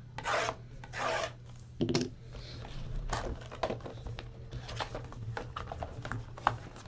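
Trading card pack wrapper being torn open with two rasping rips, followed by scattered light clicks and rustling as the cards are handled.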